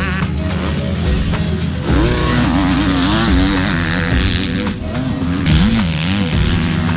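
Background music laid over a KTM 125 SX two-stroke motocross bike's engine revving up and down.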